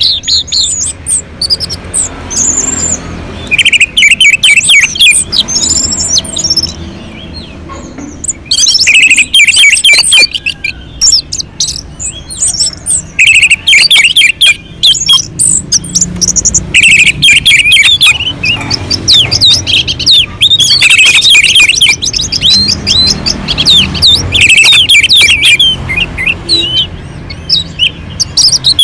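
Orange-headed thrush (anis merah) singing: loud phrases of quick, varied chirps and whistles, one after another with short breaks between them.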